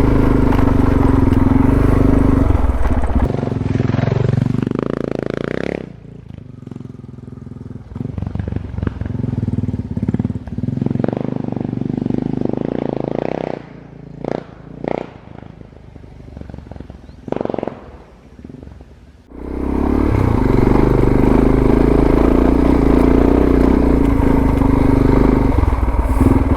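Suzuki DR650's single-cylinder four-stroke engine pulling uphill. From about six seconds in it drops to low revs with short bursts of throttle. It picks up again and pulls steadily from about nineteen seconds in.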